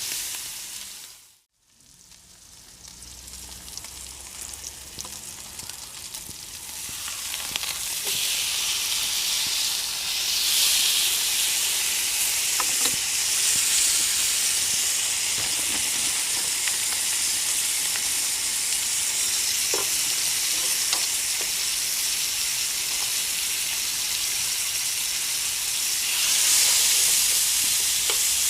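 Meat sizzling in a frying pan, likely bacon. The sizzle is faint after a brief dropout near the start, grows louder about eight seconds in, and then holds steady.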